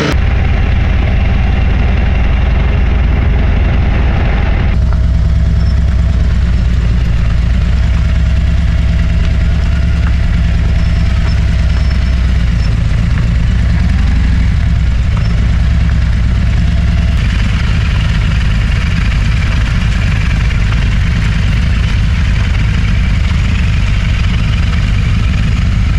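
Motorcycle engine running steadily under way, with a rush of riding noise over it; the engine note shifts about five seconds in and again later on.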